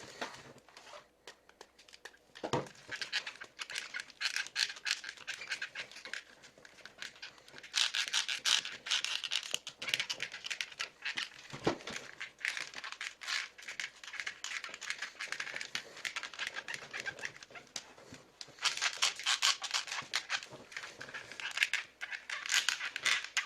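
SteelSeries Siberia V2 USB headphones creaking and crackling in their plastic mounts as they are moved: dense runs of fine clicks in several long spells. The creak persists despite a coat of silicone lubricant.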